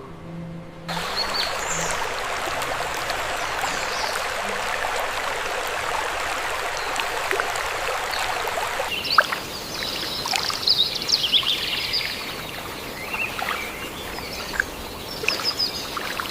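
Steady rushing of a stream's running water, starting abruptly about a second in, with birds chirping over it from about halfway through.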